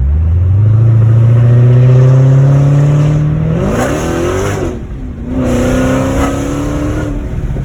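Dodge Challenger Hellcat's supercharged 6.2-litre Hemi V8 with its mid mufflers deleted, accelerating hard: the exhaust note climbs steadily, sweeps up and dips at a gear change about five seconds in, climbs again in the next gear, and drops off as the throttle is lifted near the end. Heard from inside the cabin.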